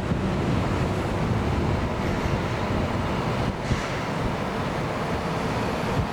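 Steady rushing roar of an Airbus A380's four jet engines on departure, with wind buffeting the microphone.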